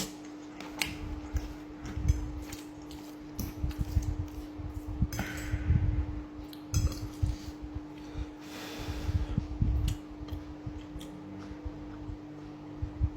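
Cutlery clicking and scraping against a plate as a person eats creamy mushroom risotto, with irregular short clinks throughout. A steady low hum runs underneath.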